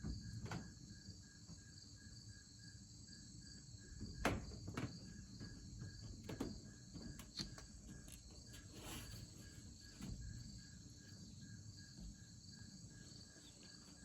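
Chorus of crickets chirping in a steady, even pulse, with several sharp knocks, the loudest about four seconds in.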